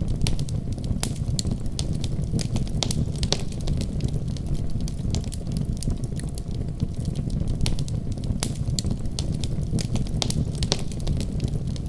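Wood fire crackling and popping in irregular sharp snaps over a steady low rumble of flame.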